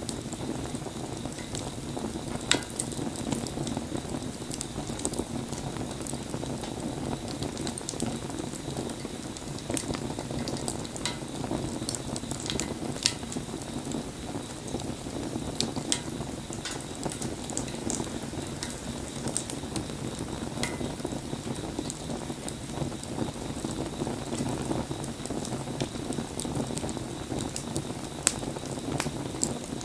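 Wood fire burning, with a steady low rush of flame and irregular sharp crackles and pops from the burning wood, a few of them louder than the rest.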